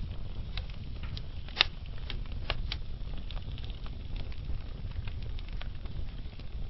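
Log fire burning slowly with a low steady rumble, scattered sharp crackles and pops, the loudest a little over one and a half seconds in.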